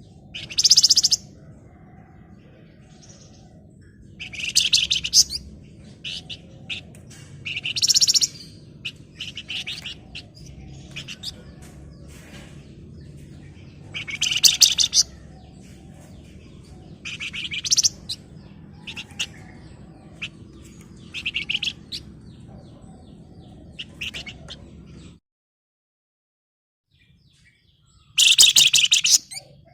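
Flamboyan songbird singing in short, shrill, rapid-fire rattling trills, repeated every few seconds, over a low background hum that cuts out abruptly near the end.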